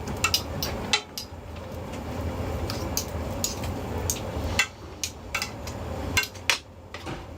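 Irregular sharp clinks and knocks of metal cooking utensils striking pans or a board, over a steady low hum.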